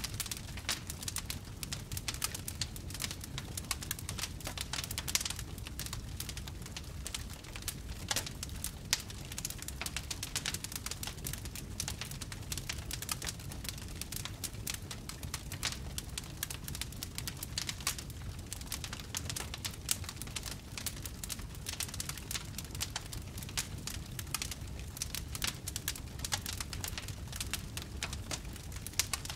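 Wood fire burning in a fireplace, with a dense run of irregular crackles and pops over a steady low rumble of the flames.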